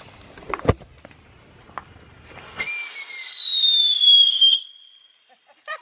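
Small whistling firework going off: a sudden hiss that turns into a high whistle, falling slowly in pitch for about two seconds before dying away. A sharp crack comes before it, under a second in.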